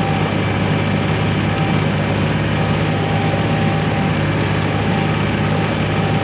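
Diesel engine of a 1985 John Deere 1050 tractor, a three-cylinder, running at a steady speed while the tractor plows snow.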